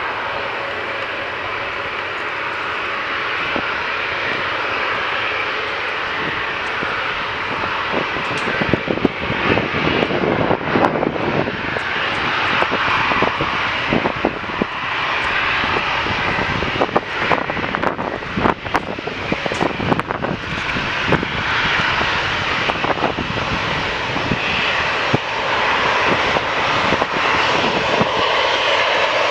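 Jet airliner engine noise at an airport: a continuous wide rumble-and-roar that turns rough and uneven for a stretch in the middle, then grows a little louder and steadier toward the end.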